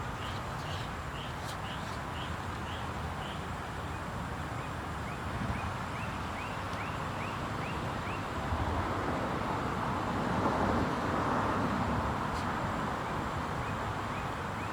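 A bird chirping, short rising notes about two a second, over steady outdoor background noise that swells in the middle, like a vehicle passing.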